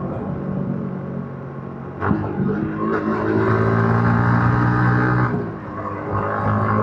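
Yamaha MT-15's single-cylinder engine on its stock exhaust, ridden on the road. It runs quieter off the throttle, picks up with a sharp click about two seconds in, pulls steadily, and eases off again shortly before the end.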